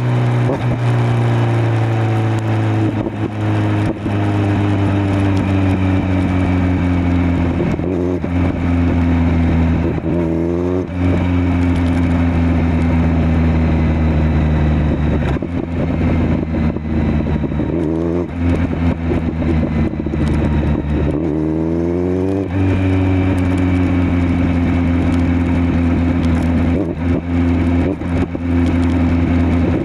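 Kawasaki Z900 inline-four running through a LeoVince LV10 slip-on exhaust while riding. The engine note mostly holds steady or sinks slowly, with several short throttle rises where the pitch climbs quickly; the longest comes about two-thirds of the way through.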